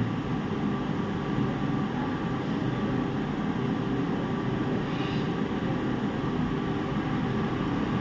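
Steady low hum and hiss of background machine noise, even throughout with no sudden sounds.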